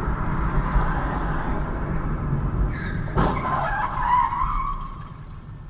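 Steady car road noise, then a sudden bang about three seconds in, like a collision, followed by a screech that fades out.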